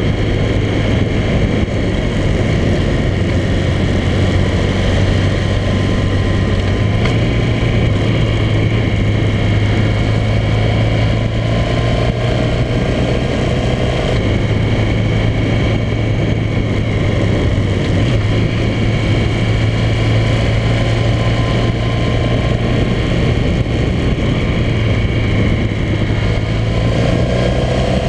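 Motorcycle engine running steadily at cruising revs while riding, with wind and road noise. The engine note rises a little twice, around the middle and near the end.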